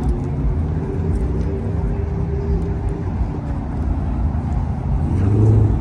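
Car engine running at idle, with a brief rise in pitch and level about five seconds in, a light rev.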